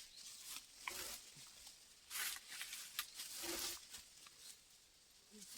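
Faint, scattered rustling and scraping noises, a few short bursts a second or so apart, with no chainsaw running.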